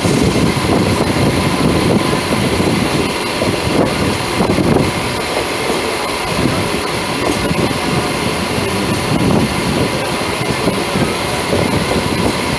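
Electric local train (EMU) running at speed, heard from its open doorway: a steady rumble with irregular clatter of the wheels over rail joints and points, and a faint steady high tone.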